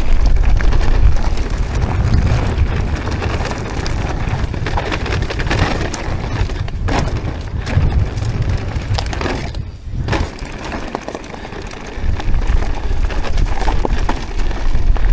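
Wind buffeting a bike-mounted camera's microphone, over the crackle and rattle of mountain-bike tyres rolling on a rough dirt trail. The sound is loud and continuous, easing briefly about ten seconds in.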